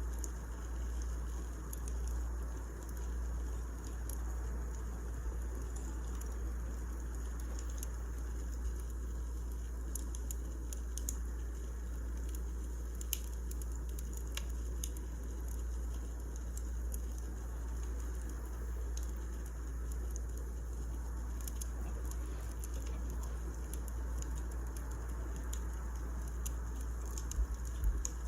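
Wood fire burning in a fireplace: irregular sharp crackles and pops over a steady low rumble, with a couple of louder pops near the end.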